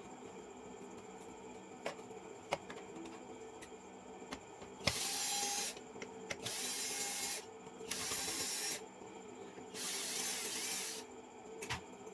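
Four hissing bursts of about a second each from a pressurised spray, with light handling clicks between them.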